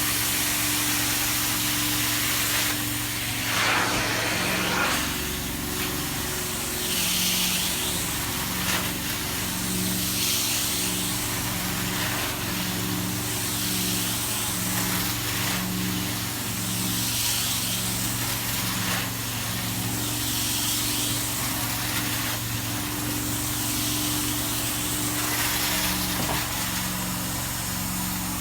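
Carpet-cleaning machine running steadily with a low hum, while a hiss of spray and suction swells and fades about every three seconds.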